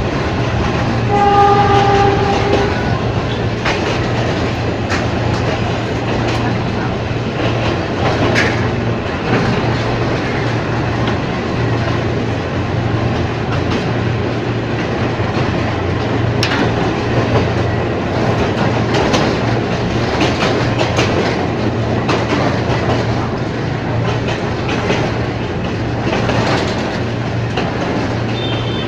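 Ex-JR 203 series electric multiple unit running on Philippine National Railways track: a steady rumble of wheels on rail with a low hum and occasional clacks over rail joints. A horn sounds briefly about a second in.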